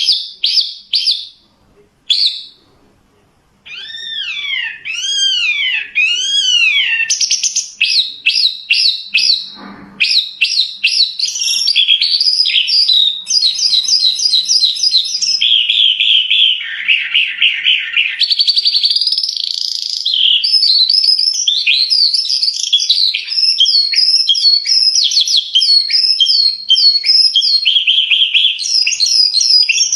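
Skylark singing a long, fast, varied song of rapid trills, chirps and sweeping rising-and-falling whistles, with a short pause near the start.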